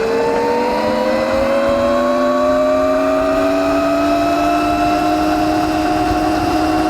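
Evoltrix X7 electric pit bike's 48 V mid-drive motor whining under full throttle, the whine rising in pitch as the bike accelerates and then levelling off as it tops out at about 30 mph, with wind rushing over the microphone.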